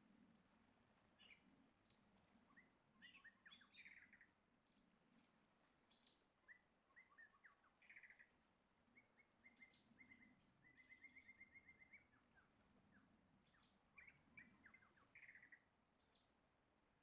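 Faint birdsong: several small birds chirping, with a few rapid trills about the middle.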